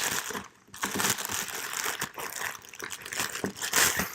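Plastic packaging crinkling and rustling as it is handled, in uneven bursts with a short pause about a second in.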